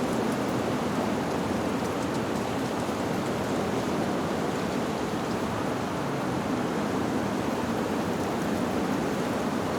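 Wind blowing through leaves: a steady rushing noise that holds even throughout, with no chime notes standing out.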